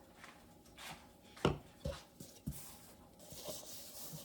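Kitchen utensils being handled on a countertop: a few sharp knocks, the loudest about a second and a half in, with light rubbing and scraping between them.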